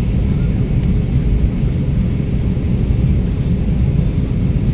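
Steady low rumble of an Airbus A320-214's cabin in descent: its CFM56 engines and the airflow over the fuselage, heard from inside, with a faint steady hum.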